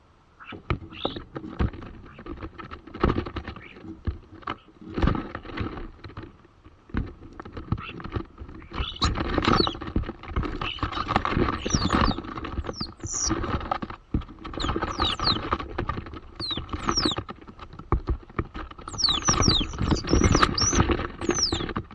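Starlings calling: a busy run of clicks, knocks and rattles, with short squeaky whistles sliding up and down that start about halfway through and crowd together near the end.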